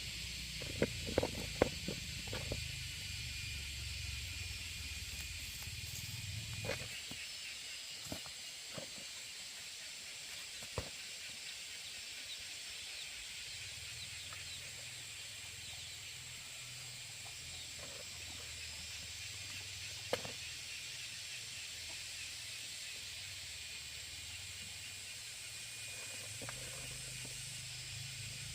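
A steady high outdoor hiss with a few light knocks, a cluster of them in the first couple of seconds and single ones later.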